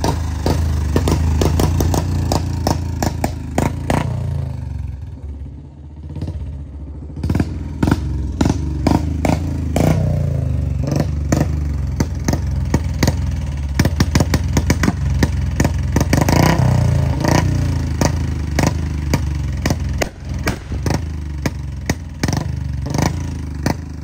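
Motorcycle engine running and being revved, with rapid sharp exhaust pops and crackles: misfire backfiring. The engine note dips briefly about five seconds in and swells with revs twice.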